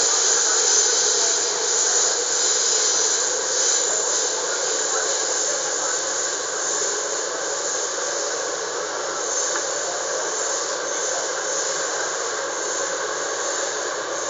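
Steady rushing hiss of an MTR K-Train (Hyundai Rotem electric multiple unit) running, heard from inside the passenger car, slowly easing a little in level.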